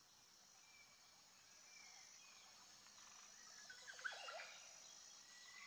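Near silence, with a few faint, short bird chirps, a small cluster of them about four seconds in.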